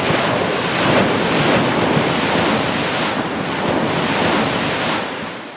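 Ocean surf: a steady wash of breaking waves, swelling and easing a little, that fades out near the end.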